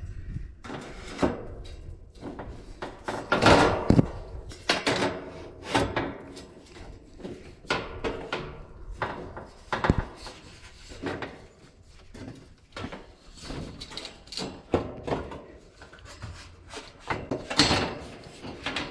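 Irregular knocks, clunks and rattles of the unit's parts being handled and set in place, with the loudest clunks about three and a half seconds in and again near the end.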